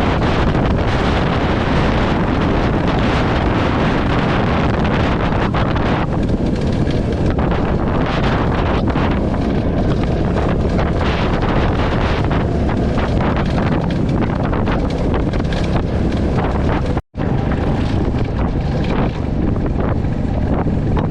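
Wind buffeting the microphone on a moving Royal Enfield Classic 350 motorcycle, its engine running underneath as a steady loud rush. The sound cuts out for a split second about four seconds before the end, then resumes.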